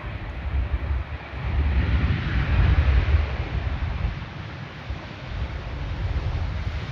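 Jet airliner passing with a rushing engine noise that swells about two to three seconds in and then eases, mixed with wind buffeting the microphone.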